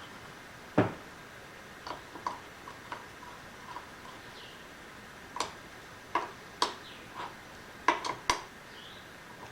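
Scattered light metallic clicks and clinks of steel parts being handled and fitted by hand while a roller is set into place, with one sharper knock about a second in and a quick cluster of clicks near the end.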